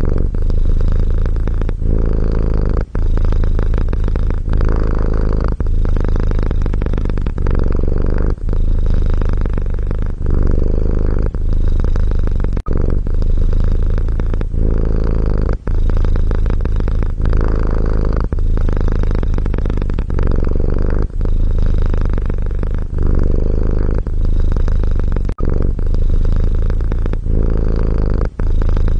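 Domestic cat purring steadily, a deep rumble with brief breaks every second or two as it breathes in and out.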